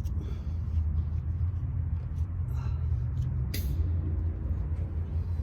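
A steady low engine rumble running at idle, with a single sharp knock about three and a half seconds in.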